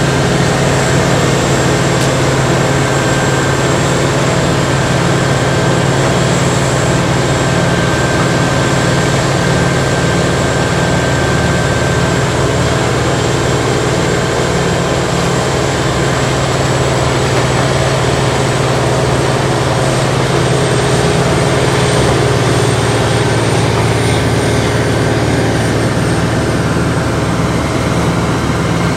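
Tracked Morbark horizontal grinder running steadily, loud and unbroken, as it grinds brush and stump debris. It makes a deep engine drone with a thin high whine on top.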